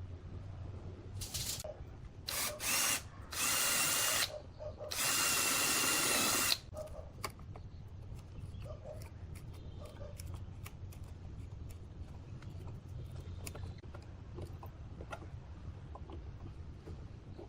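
Power drill run in four short bursts in the first half, the last and longest about a second and a half, then stopping. After that only a low hum and faint scattered clicks.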